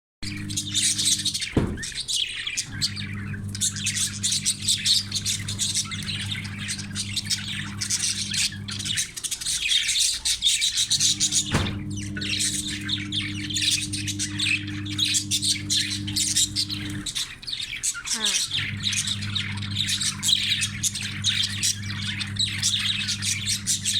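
A flock of budgerigars chattering, with a dense, continuous stream of rapid chirps and warbles. Underneath is a steady low hum that cuts out and returns a few times.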